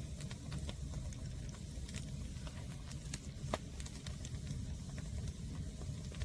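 Wood fire of green, unseasoned firewood burning, with irregular sharp crackles and pops over a steady low rumble; one louder pop about halfway through.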